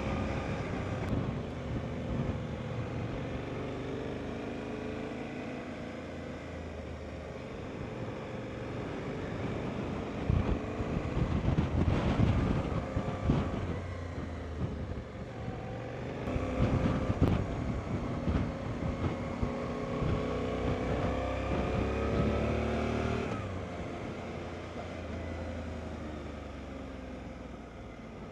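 Motorcycle engine running while being ridden, its pitch climbing under acceleration and dropping at gear changes, over steady wind and road noise. The rushing noise swells louder about ten seconds in and again around seventeen seconds.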